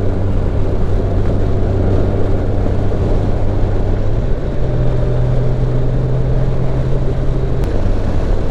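Motorcycle engine running at road speed under wind rush. Its note jumps higher about halfway in and holds there, then a sharp click near the end.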